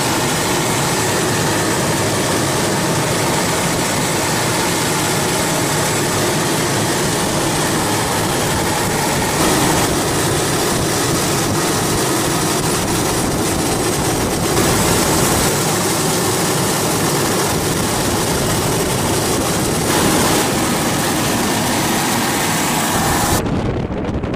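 A boat's engine running steadily under heavy wind buffeting on the microphone, with the sound changing abruptly at a few cuts.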